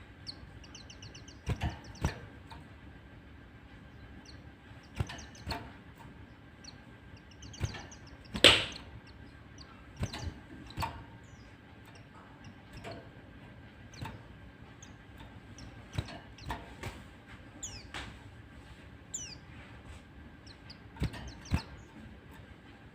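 Brief, faint high chirps and short trills of white-eyes (pleci), a few of them falling, come and go among scattered knocks and taps. The loudest sound is a single thump about eight seconds in.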